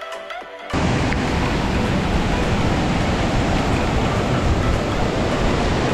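Background music cuts off under a second in, giving way to the steady, loud rush of Bomburu Ella waterfall's falling water.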